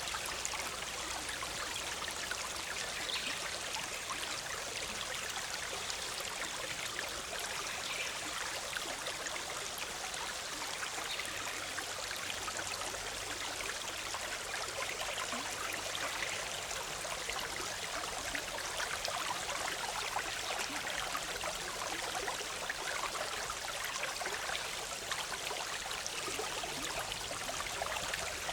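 Forest stream bubbling steadily over rocks, an even rush of flowing water.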